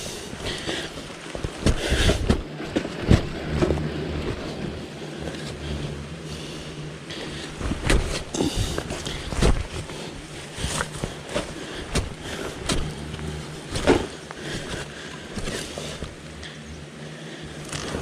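Digging into soil with a hand tool: irregular knocks and scraping, loudest in a few spells.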